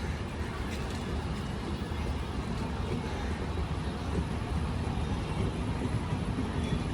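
Indian Railways train running, a steady low rumble.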